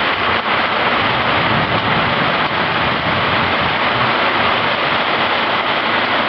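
Heavy rain pouring down in a steady, loud hiss during a thunderstorm downpour.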